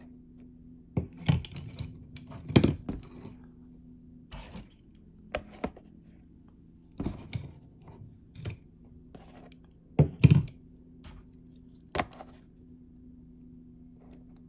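Hot Wheels 5-pack packaging handled and opened by hand: scattered taps, clicks and tearing of cardboard and plastic blister. The loudest handling noises come about a few seconds in and again near ten seconds in, over a steady low hum.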